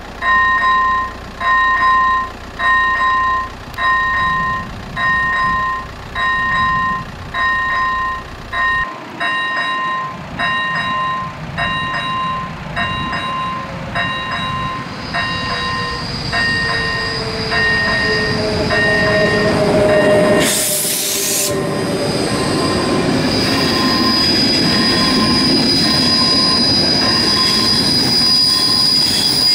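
Railway level-crossing warning bell ringing in short electronic dings about once a second. A passenger train then approaches and passes over the crossing with a rising rumble and a steady high wheel squeal, with a brief loud rushing noise about 20 seconds in.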